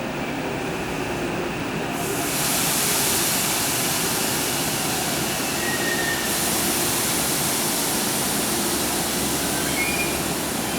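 Tokyo Metro 8000 series electric train running into the station platform, a steady rumble of wheels on rail, with a loud high hiss coming in suddenly about two seconds in.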